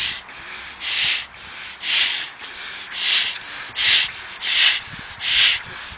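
A person breathing hard through the nose in short hissing puffs, about one a second and getting slightly quicker, to blow up a rubber glove pulled over the head.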